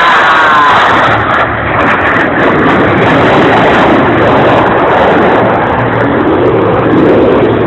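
F/A-18 Hornet jets passing low and loud: a dense rushing jet noise with a falling whine in the first second or so.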